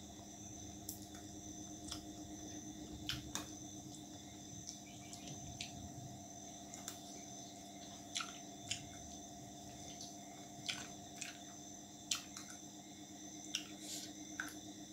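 Eating sounds of a man eating roti and chicken curry by hand: chewing with a dozen or so short, sharp mouth clicks and smacks scattered through, over a faint steady hum and high whine.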